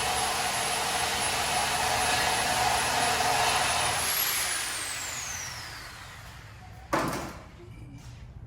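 A high-speed power tool runs with a steady high whine, then is let off and spins down, its whine falling in pitch as it slows. A single sharp knock comes near the end.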